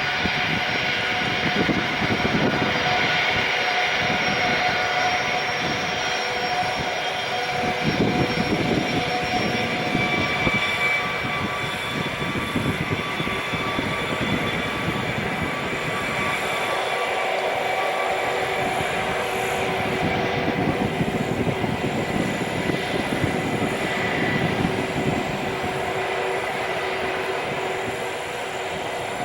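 Jet airliner engines running: a loud, steady noise with several held whining tones over a rumble that swells and fades.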